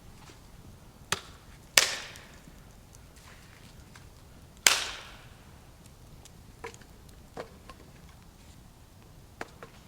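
Firewood being chopped or broken: two loud, sharp wooden cracks about three seconds apart, with a lighter knock before them and a few small knocks and snaps after.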